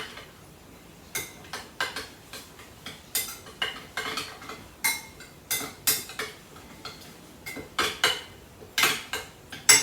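A spoon clinking and scraping against a bowl while chopped tomatoes and spice powders are stirred together, in irregular knocks about one or two a second.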